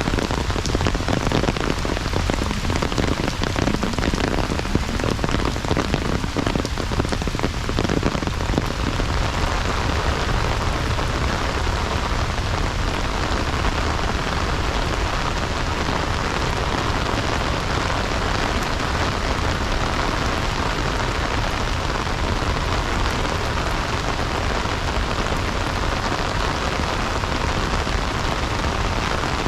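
Heavy rain falling steadily, a dense hiss of drops on the ground and surroundings, a little rougher for the first several seconds and then evening out.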